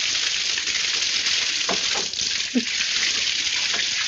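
Steady hiss of water spraying from burst household pipes, with a few short squeaky sounds around the middle.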